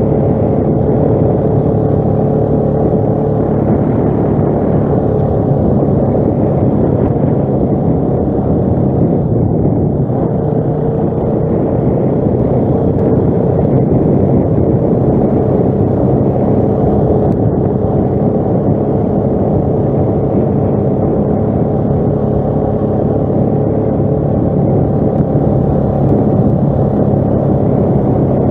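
ATV engine running steadily while riding, holding a fairly even pitch throughout.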